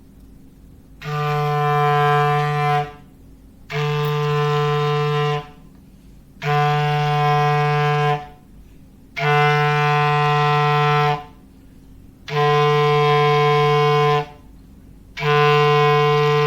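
Foghorn sound effect: a low, steady horn tone in repeated blasts of about two seconds each, a second or so apart. There are five full blasts, and a sixth is still sounding at the end.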